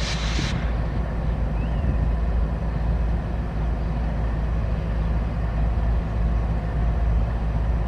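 CSX freight train rolling past with a steady low rumble from its cars, with a brief hiss at the very start.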